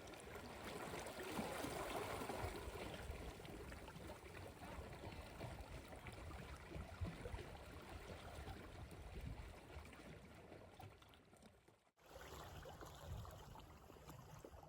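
Stream water running, a faint steady rush. About twelve seconds in it cuts off abruptly and a different outdoor background follows.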